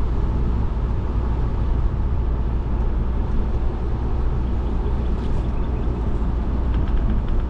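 Car driving on a road, heard from inside the cabin: a steady low rumble of engine and tyres with road noise.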